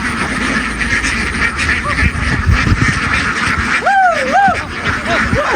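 A flock of domestic ducks quacking continuously, many birds calling over one another in a dense chatter. A louder drawn-out call that rises and falls twice stands out about four seconds in.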